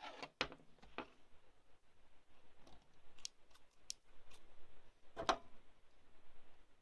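Light clicks and taps of craft tools and materials being handled and set down on a tabletop, with a slightly stronger knock about five seconds in.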